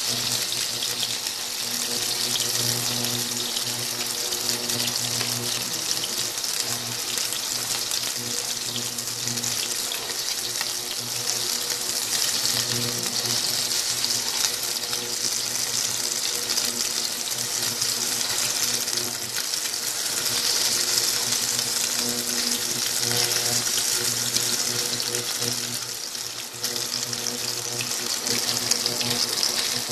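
Sliced marinated beef sizzling steadily in hot oil in a nonstick pan while it is stir-fried.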